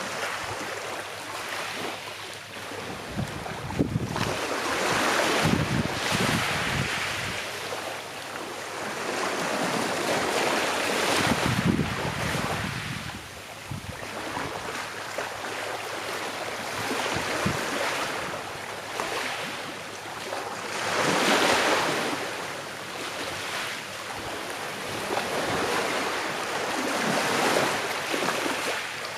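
Gentle sea waves washing onto a shore, the surf swelling and falling away every few seconds.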